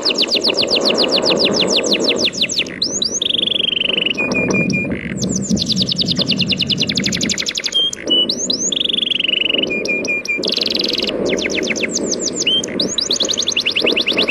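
A songbird singing close by, loud trills of rapid repeated notes, each run lasting a second or two, alternating with short held whistles. A steady low rushing of sea waves runs beneath it.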